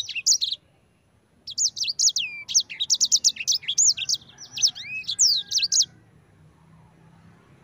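Sanger bird singing a fast rolling song of high chirps and sweeping notes, with a short pause about half a second in; the song stops about six seconds in, leaving a faint low hum.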